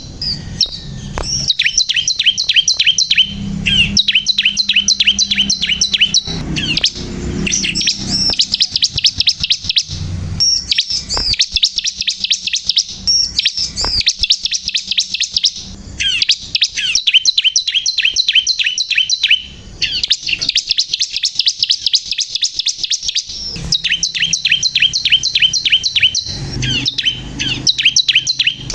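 Bar-winged prinia (ciblek kristal) singing at full tilt: long runs of quick, high, repeated chirping notes, several a second, broken by short pauses.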